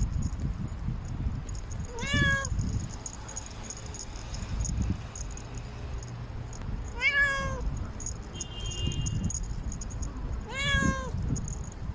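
Domestic cat giving loud, drawn-out meows, three separate calls a few seconds apart, each rising and then falling in pitch. These are a cat's calls for a mate.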